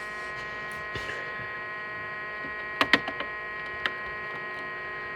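Egg incubator running with a steady electrical hum, with a few short sharp clicks, the loudest pair about three seconds in.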